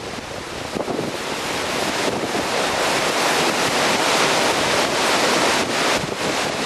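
Strong windstorm wind buffeting the microphone: a steady rushing noise that grows louder about two seconds in.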